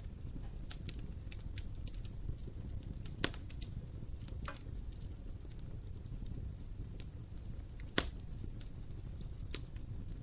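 Wood fire burning in an open fireplace: a low steady rumble of flames with scattered crackles and a few sharper pops, the loudest about eight seconds in.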